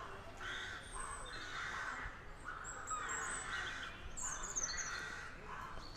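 A crow cawing repeatedly in harsh calls, about one every second or so, with small birds chirping high and thin in the background.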